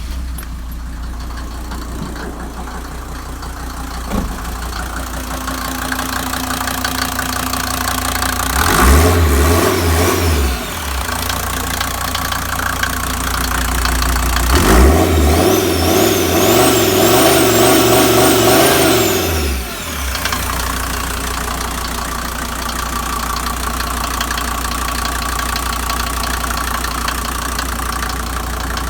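SsangYong OM662.935 five-cylinder turbodiesel idling just after starting. It is revved twice, briefly about nine seconds in and for longer about fifteen seconds in, with a high whine rising and falling during the longer rev. It then settles back to a steady idle.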